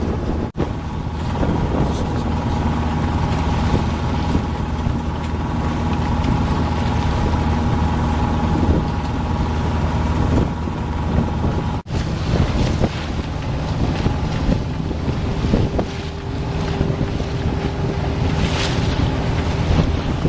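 Wind buffeting the microphone and water noise from a sailboat under way, over a steady low hum. The sound drops out for an instant twice.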